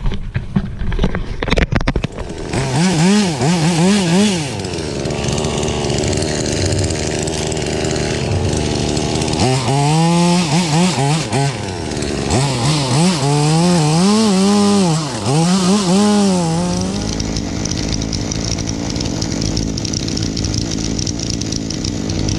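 Two-stroke chainsaw revving up and down repeatedly as it cuts wood, then running steadily near the end. A few knocks sound in the first couple of seconds.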